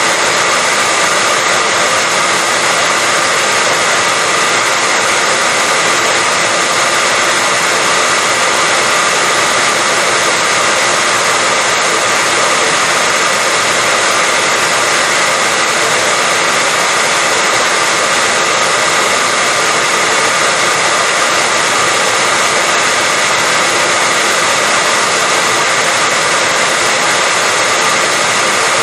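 Hair dryer running steadily: an even rush of blown air with a faint steady whine from its motor, unchanging throughout.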